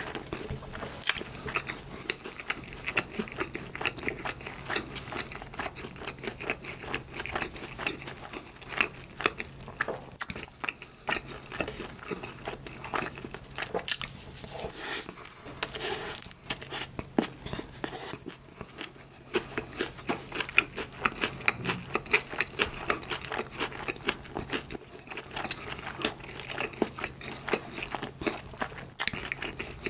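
Close-miked mouth sounds of a person biting and chewing soft bread: a dense stream of small clicks and smacks, with a faint steady low hum underneath.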